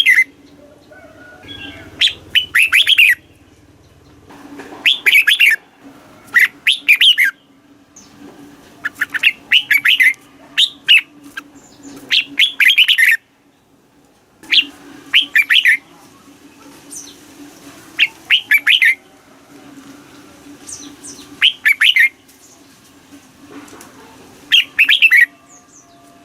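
Red-whiskered bulbul singing: short, loud warbling phrases, about a dozen of them, repeated every couple of seconds.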